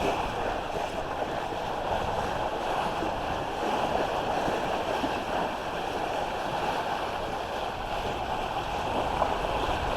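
Steady wash of water against the hull of a sailing smack, with wind on the microphone.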